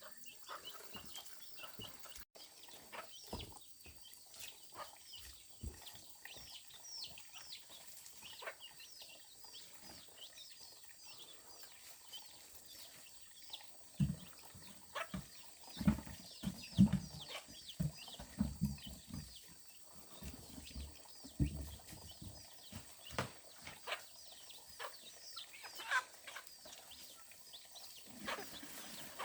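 Chickens clucking, with many short high calls throughout. A run of louder, dull thumps comes in the middle.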